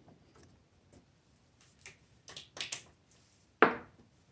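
Scattered light clicks and taps of tools and parts being handled, then one sharper, louder knock about three and a half seconds in.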